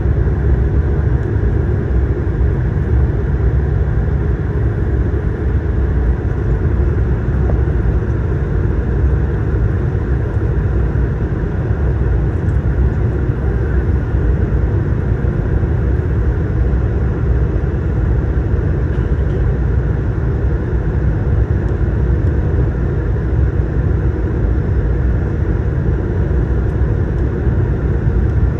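Steady, deep rumble of cabin noise aboard an Airbus A220-300, its Pratt & Whitney PW1500G geared turbofans and airflow making an even, unchanging drone.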